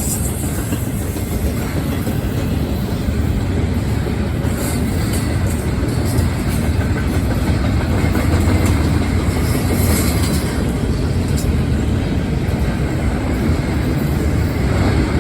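Norfolk Southern freight train's cars rolling past at close range: a steady rumble of steel wheels on the rails, with a few light clicks over the rail joints.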